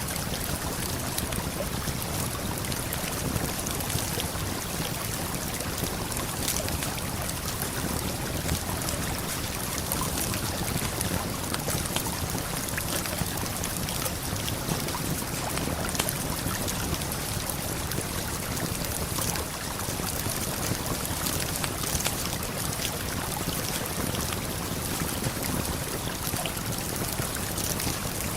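Steady rushing of a waterfall and flowing river, with scattered sharp crackles and pops from a campfire.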